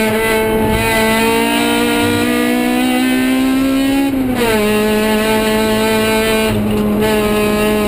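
Honda K20Z1 2.0-litre inline-four in a 1999 Civic sedan at high revs under full throttle, heard from inside the cabin: the revs climb steadily, a sharp drop in pitch about four seconds in marks an upshift, then the engine pulls on at a steady pitch.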